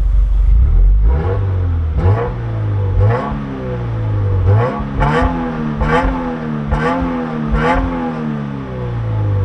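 Subaru WRX's turbocharged flat-four engine on its stock, quiet exhaust, blipped from idle in about eight short, light revs roughly a second apart, each pitch rising and falling quickly, then settling back to idle near the end.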